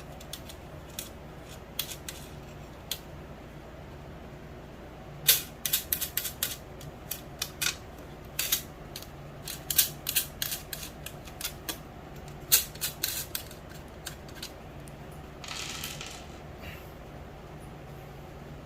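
Small hard parts being handled and removed by hand: a quick, irregular run of sharp clicks and light clatter, a few single clicks before it and a brief rustle after it, over a low steady hum.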